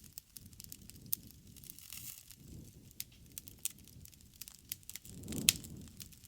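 Bonfire burning: wood crackling with frequent sharp pops over a low rush of flame, and one louder pop about five and a half seconds in.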